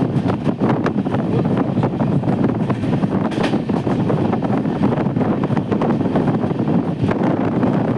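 Heavy monsoon rain pouring steadily, with many short patters, mixed with wind buffeting the microphone.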